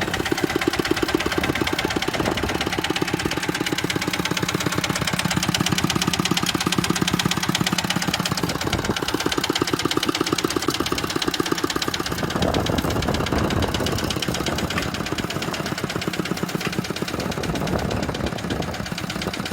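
Tractor diesel engine running steadily, its firing strokes a rapid, even beat.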